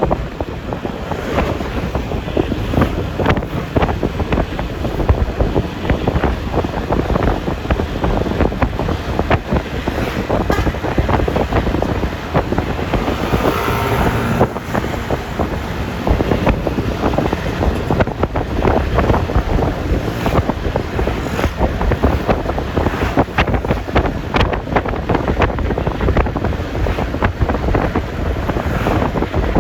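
Riding sound of a Yamaha Lexi LX 155 scooter: wind buffeting the phone's microphone in a steady rush of gusts over the engine and tyre noise. A brief pitched sound rises and falls near the middle.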